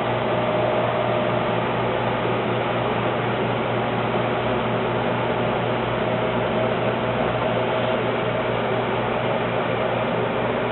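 Steady mechanical hum and hiss with a constant low tone, unchanging throughout.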